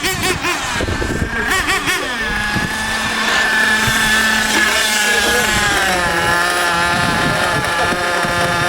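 Small nitro engines of several RC trucks revving up and down. From about two seconds in they hold a steady high-pitched whine, running flat out around the track.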